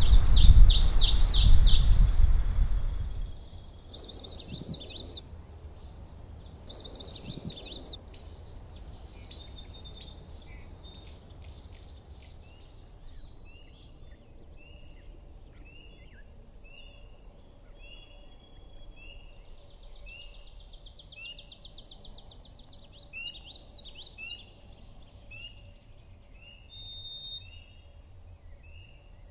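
An ovenbird sings its loud, quickly repeated 'teacher-teacher' song for the first few seconds. Fainter birdsong follows, including a long series of short chirps repeated a little more than once a second.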